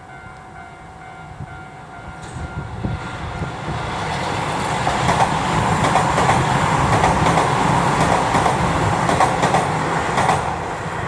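Keio 1000 series electric train passing by, its running noise swelling for several seconds, then easing off near the end, with wheels clacking over rail joints at its loudest.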